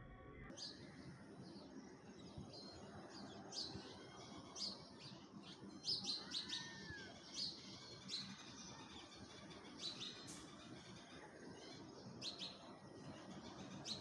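Birds chirping: short, high chirps repeated at irregular intervals, with one lower arching whistled note about six and a half seconds in.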